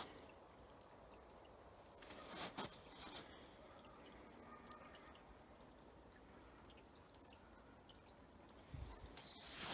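A small bird calling three times over a quiet background, about every two and a half seconds, each call a quick run of three or four falling high notes. One footstep falls about two and a half seconds in, and footsteps start again near the end.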